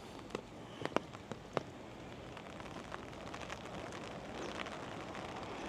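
Steady monsoon rain falling, with scattered sharp drop taps, a few louder ones in the first second and a half; the rain grows a little louder toward the end.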